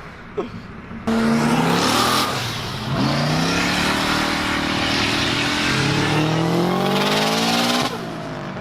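Car engine accelerating hard after a sudden start about a second in: the pitch climbs, falls back with a gear change about two seconds later, climbs steadily through the next gear and drops sharply near the end as the revs fall.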